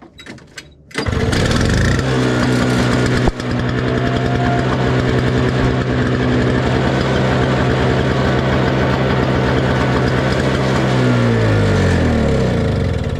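Toro CCR 2000 single-stage snowblower's two-stroke engine cold-starting: it catches about a second in and runs steadily. Near the end it winds down, falling in pitch.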